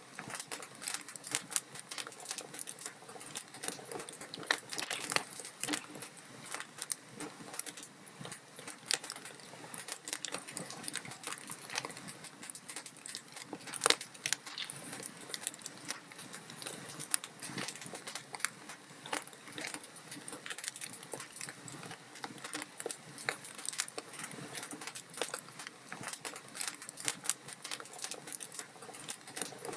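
Wood fire crackling: dense, irregular snaps and pops over a soft hiss, with one sharper pop about 14 seconds in.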